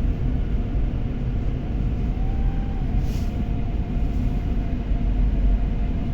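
Cabin sound of a BMW F30 driving at about 40 km/h: steady road and drivetrain rumble with a faint high whine held over it. This is the howl that appears only after the car has been deeply frozen and goes away once it warms up; its cause is unknown.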